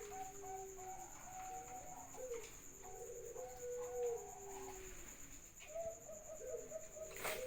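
Captive doves cooing, several birds' phrases overlapping in a continuous chorus, with a steady high tone behind them and a sharp click near the end.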